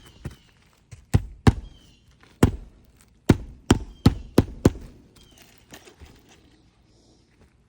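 Eight sharp hammer blows striking nailed material, in uneven groups between about one and five seconds in. Faint bird chirps sound in the background.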